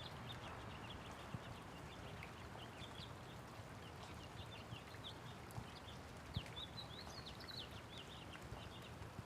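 Light rain falling steadily, with small birds chirping rapidly and continuously over it and a few louder drips or taps now and then.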